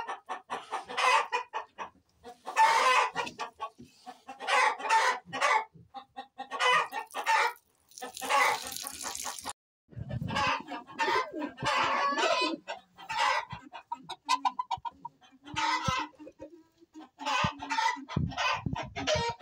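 Chickens clucking and calling over and over, with crowing among them. A short burst of hiss-like noise comes about eight seconds in, and there are a few low thumps near the end.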